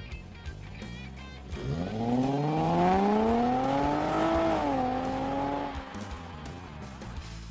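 Nissan GT-R's twin-turbo V6 accelerating hard, its note climbing steadily for a few seconds, then dropping sharply in pitch, holding briefly and fading away. Music plays faintly underneath.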